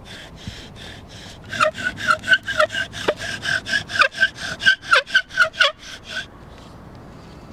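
Bow drill being worked back and forth: the wooden spindle rubs and squeaks in the hearth board with each stroke of the bow, several strokes a second. The strokes start faint, become loud and squeaky about a second and a half in, and stop suddenly about six seconds in.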